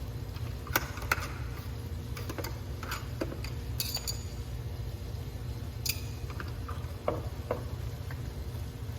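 Scattered light clicks and metallic clinks from hand tools and small door hardware being handled, over a steady low hum.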